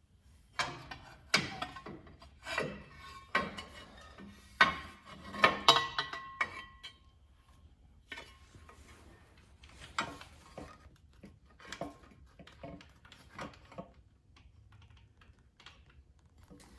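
Irregular metallic clinks and knocks of tools and metal parts being handled, some with a short ring. They come thick for the first seven seconds or so, then sparser.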